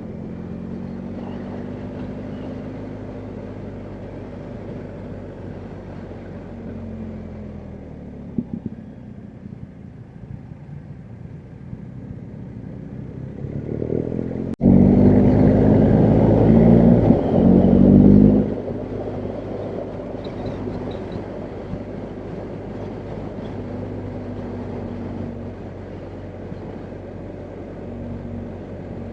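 BMW R1250GS Adventure's boxer-twin engine running under way at a steady pace, then opened up about halfway through for a few seconds of much louder engine before easing back to the earlier steady running.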